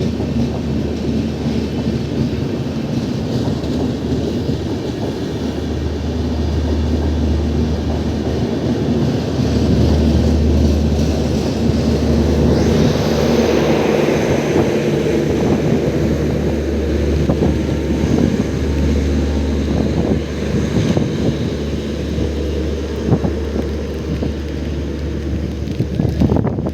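Express passenger train passing behind a diesel locomotive: a steady low engine rumble with repeated clicks and knocks of the wheels on the track, loudest from about ten seconds in.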